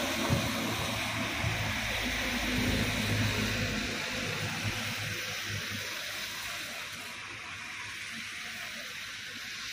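Heavy tropical rain falling steadily. A low engine hum runs under it for the first few seconds, then fades.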